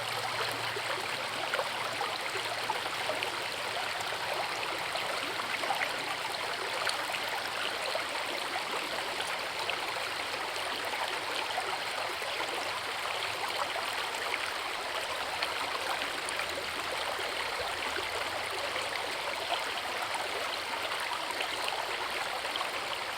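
Forest river water running steadily, a dense, even rush of splashing water.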